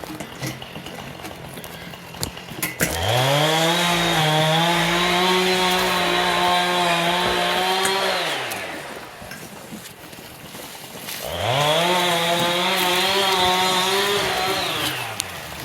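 Chainsaw revved up to full throttle twice, each time rising quickly in pitch, holding steady for about four to five seconds, then winding back down.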